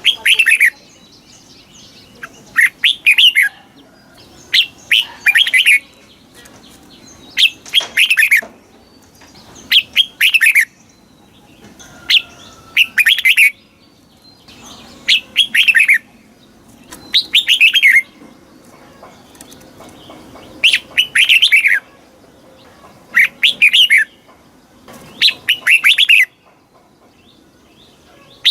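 Red-whiskered bulbul singing: short loud phrases of quick notes, repeated about every two seconds.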